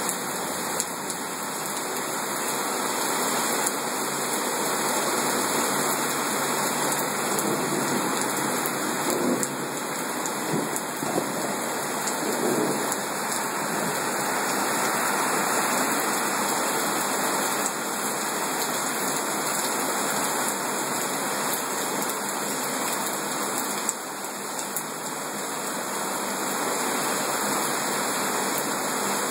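Heavy rain pouring down, a steady dense hiss with scattered faint drop patters.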